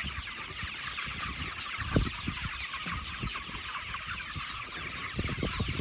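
A flock of chickens clucking and chattering together, with low rumbles underneath and a soft thump about two seconds in.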